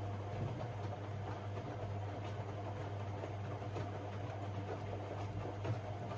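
AEG Lavamat 6610 washing machine running mid-programme: a steady low hum with a faint scatter of light ticks and rattles.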